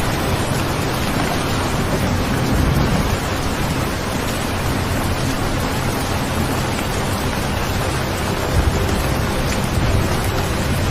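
Steady rain recording with low rumbles of distant thunder swelling a few seconds in and again near the end.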